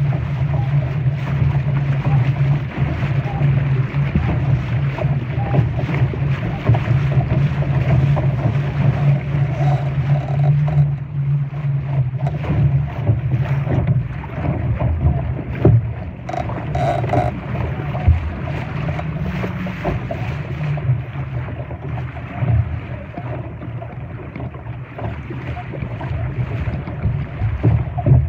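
Wind buffeting the microphone and water rushing against a Laser sailing dinghy under way, with a few short knocks near the middle.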